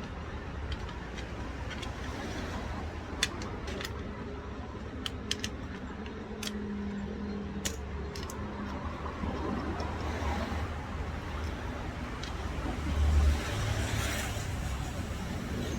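Scattered sharp metallic clicks and small clinks as an alternator is taken apart by hand to get at its carbon brushes, over a steady low rumble.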